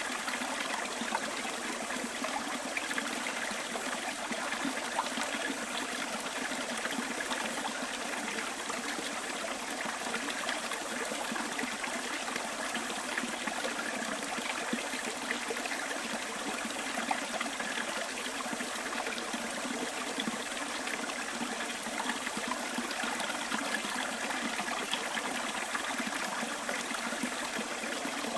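Shallow stream flowing and trickling over stones, a steady babble with small splashes throughout.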